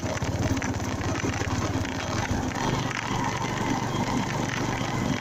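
Honda MegaPro single-cylinder motorcycle engine running steadily under way, over an even hiss of wind and road noise on the bike-mounted microphone.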